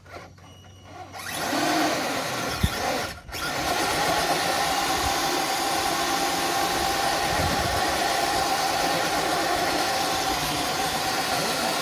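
Electric motor and gear drive of a Redcat RC crawler truck whining steadily under load as it pulls a dead-weight sled. It starts about a second in, cuts out briefly after about three seconds, then keeps going at an even pitch.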